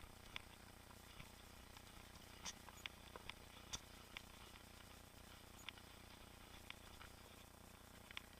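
Mountain bike rattling along a trail: a faint steady hiss with scattered sharp clicks and ticks at irregular intervals, the loudest about two and a half and nearly four seconds in.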